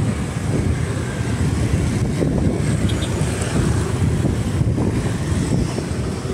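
Strong wind buffeting the microphone: a steady, loud low rumble with no clear pitch.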